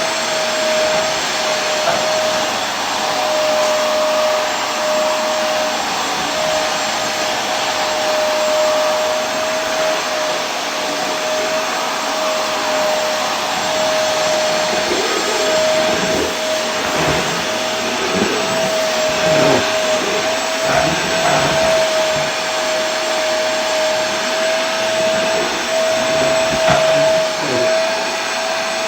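Vacuum cleaner running steadily: a dense rushing noise with a constant motor whine.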